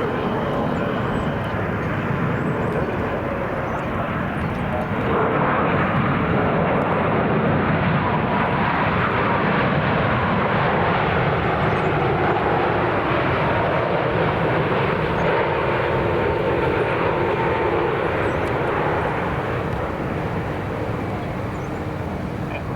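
Jet airliner passing low on its landing approach: a steady engine rush that swells about five seconds in and slowly eases off toward the end, with a faint high engine whine.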